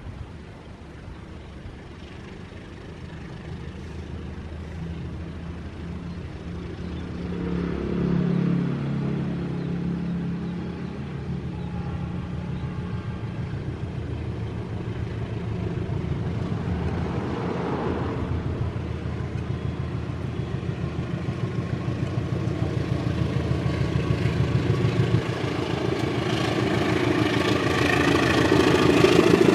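Diesel locomotive hauling a fuel tanker train approaching, its engine drone growing steadily louder, with wheel clatter building near the end as it draws close.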